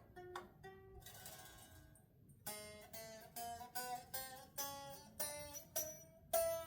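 Strings of a Stratocaster-style electric guitar plucked one note at a time after a neck and truss-rod adjustment. There is a quick rake across the strings about a second in, then a steady run of single picked notes that grows louder toward the end.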